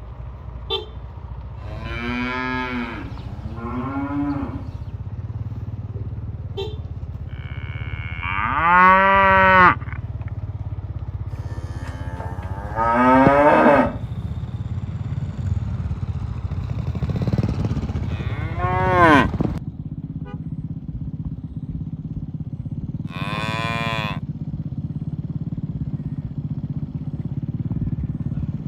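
Cattle mooing: about half a dozen separate drawn-out moos from different animals in the herd, the loudest two near the middle. A steady low rumble runs underneath.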